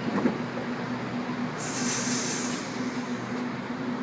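Sydney Trains Waratah electric train standing at the platform with its equipment humming steadily. A short burst of air hiss comes from the train about one and a half seconds in.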